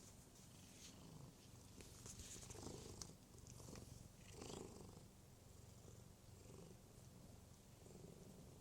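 Domestic cat purring, faint and steady, swelling a little louder twice in the middle.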